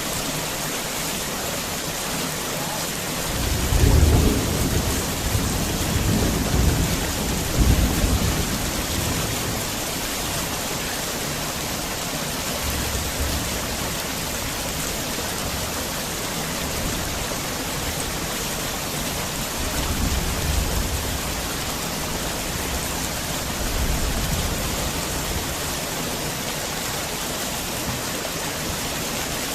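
Heavy rain falling steadily, with a rolling thunder rumble that swells a few seconds in and lasts several seconds, and two fainter rumbles later on.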